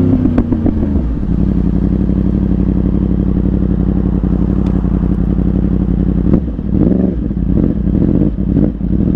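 Yamaha R1 inline-four motorcycle engine through an aftermarket Yoshimura exhaust, winding down off the throttle with a few pops and crackles in the first second, then running steadily at low revs with several short throttle blips near the end.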